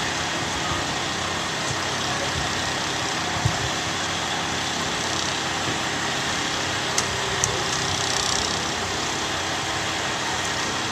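Ambulance engine idling steadily, with a few faint clicks.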